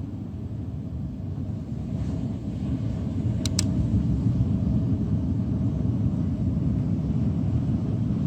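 Steady low rumble, slowly growing louder, with two brief sharp clicks about three and a half seconds in.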